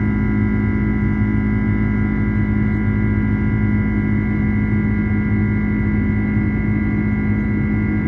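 Jet airliner cabin noise in flight: a steady drone from the engines and airflow, with several steady humming tones over it.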